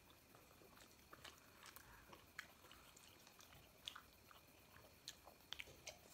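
Faint chewing and mouth sounds of people eating momos, with scattered small wet clicks, a few sharper ones in the second half.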